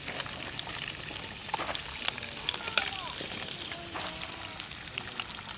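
Crackling and sizzling from cooking over a campfire: irregular sharp pops over a steady hiss.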